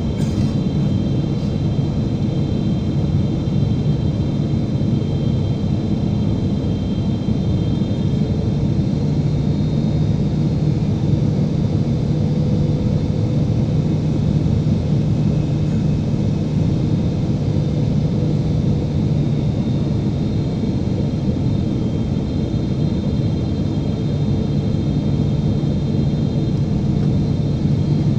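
Steady cabin noise inside a Boeing 777-300ER: a dense low rumble with a steady hum that grows stronger about nine seconds in, and a faint high whine above it.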